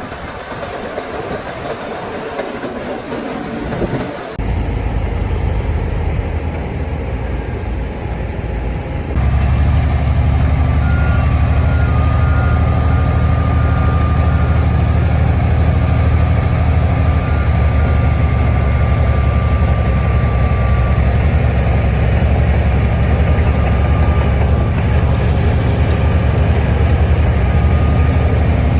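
Heavy diesel earthmoving machinery running steadily. The sound shifts abruptly twice, at about four and nine seconds in, and after the second change a loud, even low engine drone dominates, with a faint thin whine above it.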